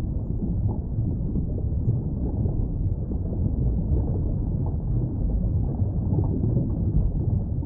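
Steady, dull rushing of water, deep and rumbling with no high hiss.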